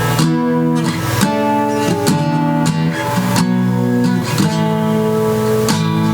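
Guitar music: strummed chords, each struck and left ringing, changing about every one to one and a half seconds.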